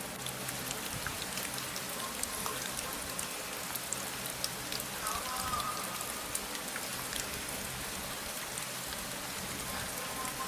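Steady rain falling: an even hiss dotted with many small, separate drop ticks.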